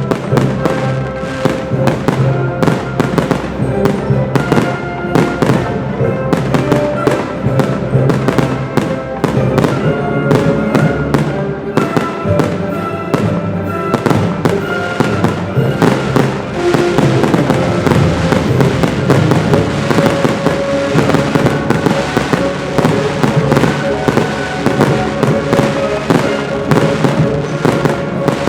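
Fireworks going off in a rapid, continuous barrage of bangs and crackles, over music played along with the display.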